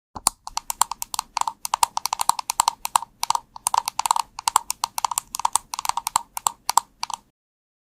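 Fast typing on a mechanical keyboard: a dense run of keystroke clicks that stops suddenly near the end.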